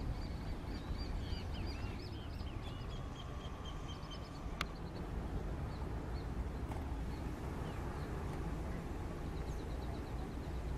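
Small birds chirping in quick runs of short repeated notes over a steady low rumble, with one sharp click about halfway through.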